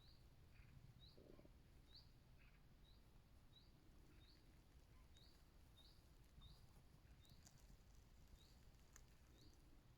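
A bird calling faintly, repeating one short, high, upward-flicking chirp about every three-quarters of a second, over a low rumble.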